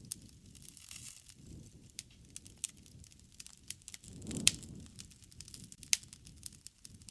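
Wood fire crackling: irregular sharp pops and snaps over the low, soft rush of burning flames. The flames swell about four seconds in, with a loud pop at their height and another sharp pop near six seconds.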